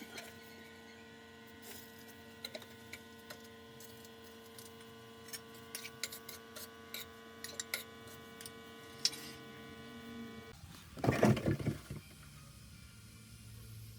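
A small motor humming steadily, with light clicks over it, cuts off about ten and a half seconds in. A loud clatter of about a second and a half follows.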